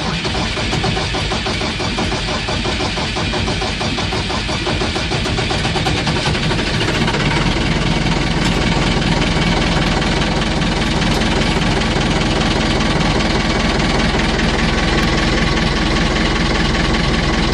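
Perkins A4.248 four-cylinder diesel engine of a Massey Ferguson 690 tractor running just after a cold start, uneven and knocking at first, then settling into a steadier idle from about seven seconds in.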